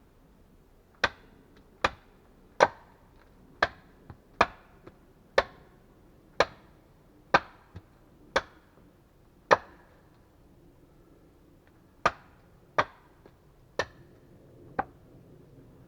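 A series of sharp wooden blows, about one a second, with a pause of a couple of seconds before the last four strikes.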